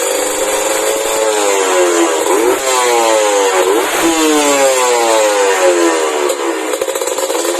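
Kawasaki Ninja 150 two-stroke engine revving through a WRS aftermarket chrome exhaust: the pitch climbs sharply twice, a couple of seconds apart, and then falls back slowly toward idle.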